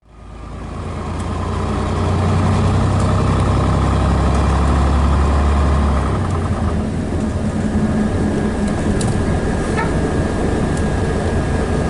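Scania DS11 six-cylinder diesel engine of a Scania BR111DH / MCW Metropolitan double-decker bus running steadily. Its low drone eases off about six seconds in.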